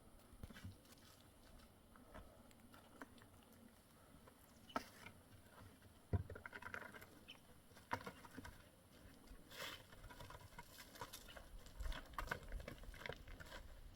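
Faint, scattered small knocks, clicks and rustling, growing busier in the second half, with a sharper knock about six seconds in.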